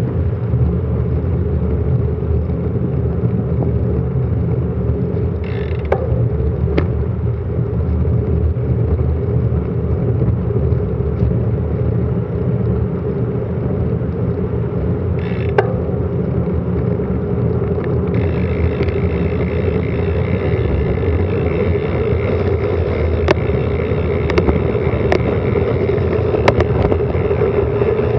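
Steady rush of wind and road rumble picked up by an action camera's microphone on a bicycle descending at speed, with a few sharp clicks and rattles from bumps.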